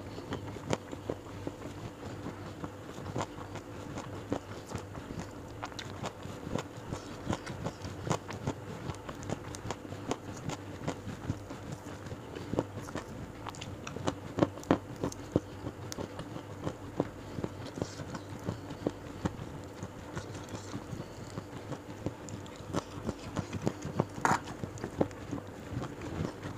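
Close-miked eating sounds: chewing and lip smacks on a mouthful of rice, salted fish and raw leafy vegetables, a stream of irregular wet clicks with one sharper click near the end. A steady low hum runs underneath.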